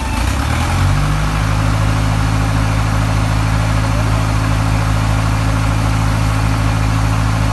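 Heavy machine engine speeding up over the first second or so, then running steady at raised revs.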